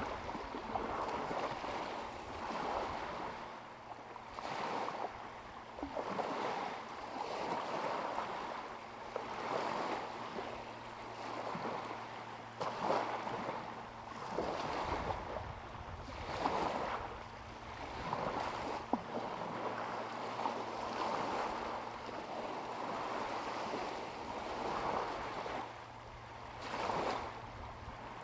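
Small waves lapping at a lakeshore, washing in about every two seconds, over a faint steady low hum, with a few light clicks.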